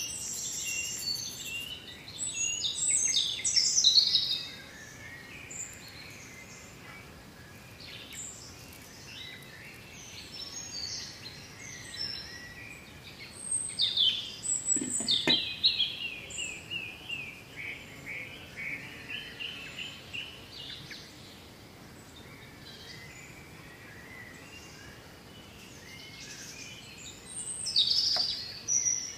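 Small songbirds chirping and singing, with quick trills of repeated notes. There is a single soft knock about halfway through.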